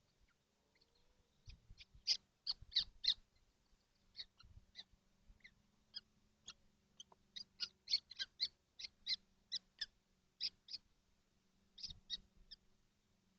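Kestrel chicks in a nest box giving short, sharp high calls, a few a second, in irregular bursts, with a few low thumps and scuffles as they shift about on the box floor.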